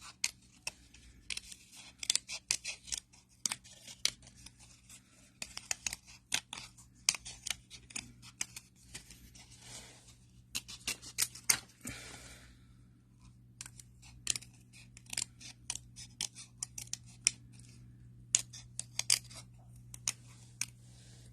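Small craft snips cutting cardstock, in quick runs of short crisp snips with brief pauses between runs.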